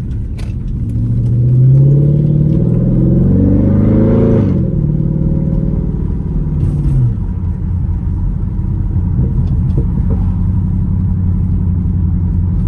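2012 Dodge Charger SRT8's 6.4-litre HEMI V8 through a straight-piped exhaust, accelerating: the engine note climbs for a few seconds, drops back about four and a half seconds in and again near seven seconds, then settles into a steady low drone.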